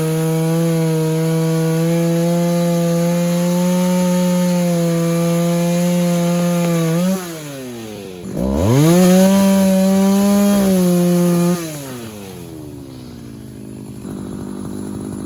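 Vintage two-stroke chainsaw running at full throttle, cutting into a hickory trunk at a steady high pitch. About seven seconds in, the revs fall away almost to nothing, then climb straight back to full throttle for a few seconds. Near the end the saw drops back to a low, quieter idle.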